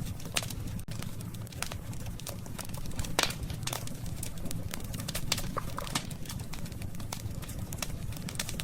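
Campfire of burning wood crackling, with irregular sharp pops over a low steady rumble; one of the stronger pops comes about 3 seconds in.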